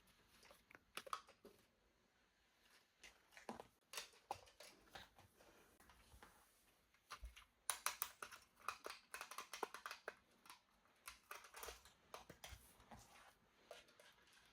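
Faint, scattered clicks and taps of plastic toy parts and packaging being handled, coming thickest in a run about halfway through.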